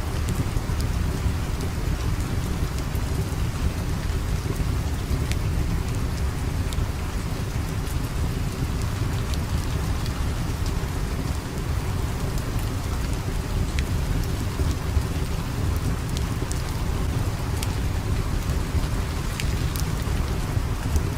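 Steady rain, an even wash of noise with a deep low rumble beneath it, with small sharp crackles scattered throughout.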